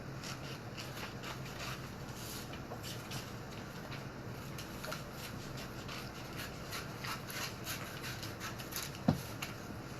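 Scissors cutting paper in short irregular snips, with paper rustling as it is handled. A brief louder sound about nine seconds in.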